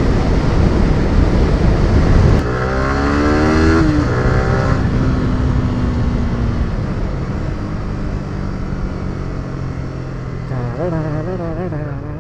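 Yamaha R15 V3's 155 cc single-cylinder engine running hard under way. About two seconds in the throttle is shut and the revs fall. The bike then carries on at low revs, gradually quieter.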